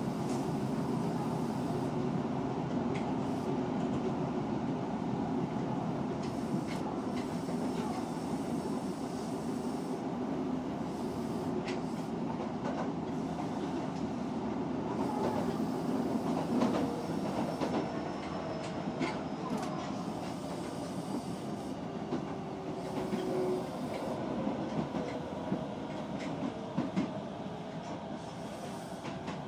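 Osaka Metro 66 series electric train running at speed, heard from inside the car: a steady rumble of wheels on rail with occasional clicks from the track. The rumble eases off a little near the end.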